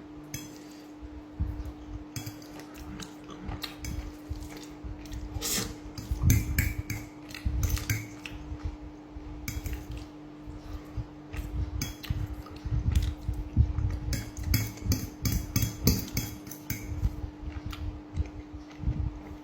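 Cutlery clinking and scraping against a plate, in many short irregular clicks, with eating sounds between them.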